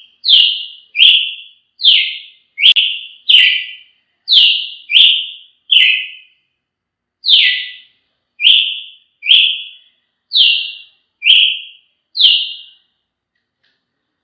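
Brazilian tanager (tiê-sangue) singing: a run of short, clear, whistled notes, each starting sharply and fading, repeated about once every three-quarters of a second, with a brief pause midway, stopping about a second before the end.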